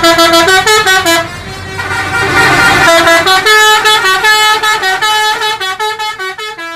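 Bus musical multi-tone horn (an Indonesian 'telolet' horn) playing a quick tune of changing notes, softer for a moment about a second in, then loud again.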